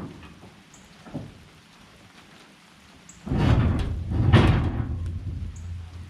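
Light rain falling. About three seconds in, a loud rumble of thunder starts suddenly, swells twice and fades away.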